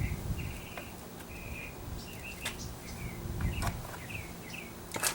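Birds chirping over and over in short calls, with a few sharp clicks, the loudest one near the end.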